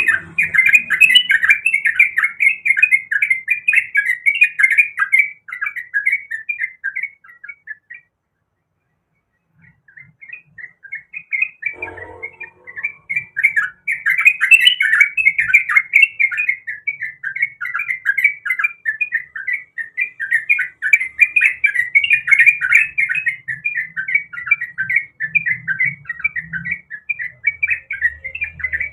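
Yellow-vented bulbul (trucuk) singing a long, fast run of bubbly chattering notes. The song breaks off for about two seconds near the middle, then starts up again.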